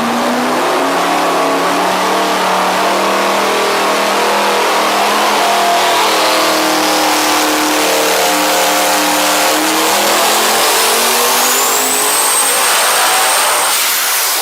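Devel Sixteen's boosted V16 engine on a dyno, running a full-load pull with its pitch climbing steadily for about twelve seconds. A high whine rises with it and levels off near the top, and the engine comes off load at the very end.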